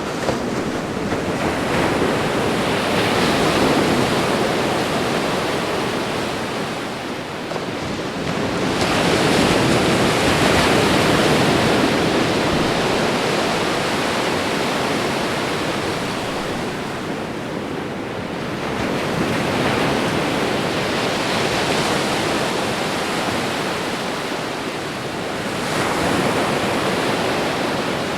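Sea surf: waves breaking and washing up the shore, the rushing noise swelling and ebbing every several seconds.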